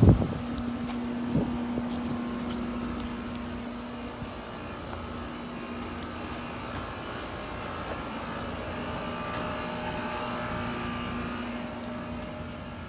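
An engine running steadily, with two sharp thumps in the first second and a half.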